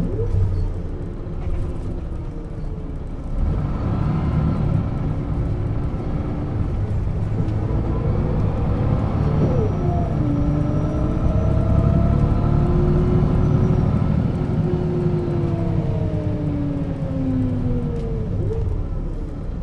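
1996 Setra S 315 UL bus running along: the engine and ZF gearbox whine climb in pitch as it pulls away, break with a gear change about halfway, then hold and fall away again as it slows near the end.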